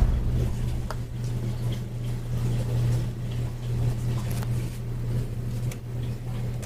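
HP Pavilion dv2000 laptop running with a steady low hum and a few faint clicks. The sound cuts off suddenly near the end.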